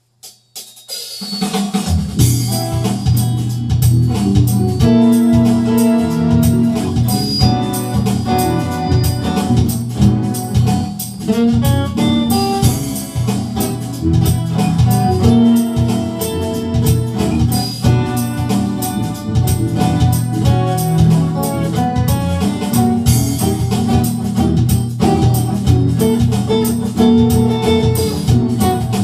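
Instrumental soul music: a drum kit playing a steady beat with bass and organ, coming in about a second and a half in.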